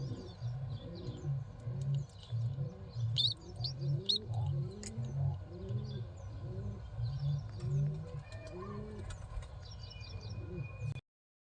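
Pigeons cooing over and over, low rounded calls about twice a second, with thin high cheeps over them. The sound cuts off suddenly near the end.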